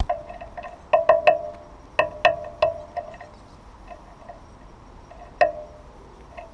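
Sharp, irregular taps on a bird feeder, each with a short ringing note, in quick clusters and then once more near the end: a bird pecking at the hollow feeder.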